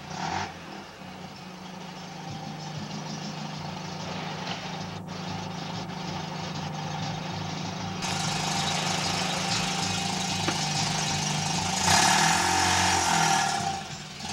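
Mazda 12A two-rotor rotary engine of a 1981 RX-7 GSL, with straight headers into a dual-entry muffler and a four-barrel carburettor, idling steadily. Near the end it gets louder for about a second and a half as the revs rise and fall.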